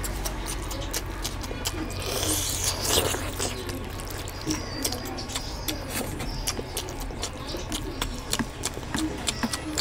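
Close-miked eating sounds of a person chewing curry and rice: wet chewing and lip smacks made up of many small, irregular clicks over a low steady hum.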